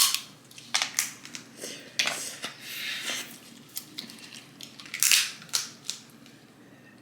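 Snow crab leg shells being cracked and snapped open: several sharp cracks at irregular intervals, the loudest at the start and about five seconds in.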